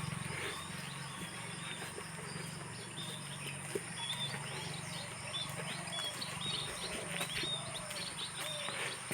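Several birds chirping, with short hooked calls repeating every fraction of a second, over a steady low hum and a thin, high, steady whine.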